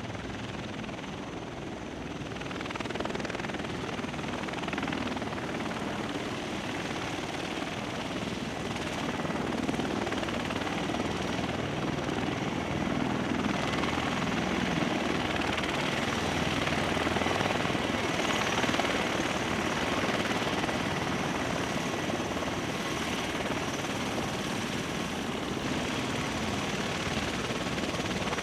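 Military rotorcraft running: a steady rush of rotor and turbine engine noise with a faint high turbine whine, growing a little louder about three seconds in.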